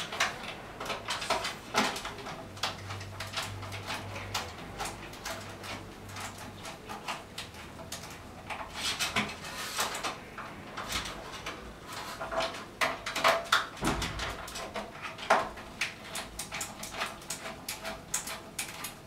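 Small clicks, taps and scrapes of hand work: wires and a screwdriver being handled while the phase and neutral terminal screws are tightened.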